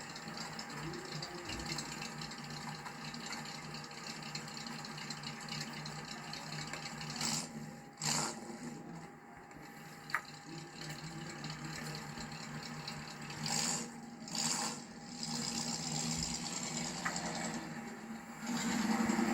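1965 Ford Fairlane's 289 V8 running steadily on a test drive, with a few short louder swells of noise along the way.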